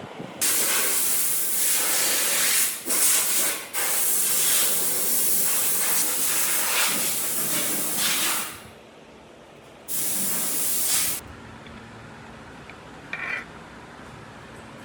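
Hissing spray from a nozzle, in one long burst of about eight seconds that breaks twice briefly near the start, then a shorter burst of about a second.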